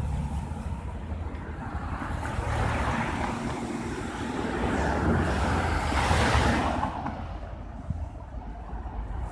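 Sea waves washing in, with wind buffeting the microphone; the wash swells twice, loudest about six seconds in, then dies away.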